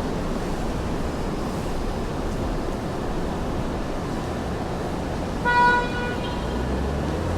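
Steady city street traffic noise, with a single short car-horn toot about five and a half seconds in, followed by a low vehicle rumble near the end.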